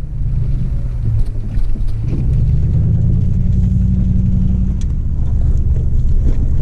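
Vehicle engine and road rumble heard from inside the cab while driving a dirt road; the engine note rises a little about two seconds in and then holds steady. Scattered light ticks sound over the rumble.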